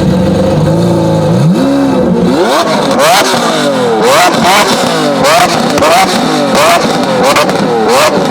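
Lamborghini Aventador V12 engine running steadily, then revved in quick repeated throttle blips, about two a second. Each blip brings sharp exhaust cracks.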